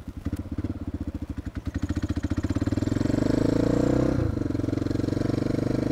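Suzuki single-cylinder dual-sport motorcycle engine pulsing slowly at low revs, then revving up as the bike pulls away. Pitch drops briefly at a gear change about four seconds in, after which it runs steadily at higher revs.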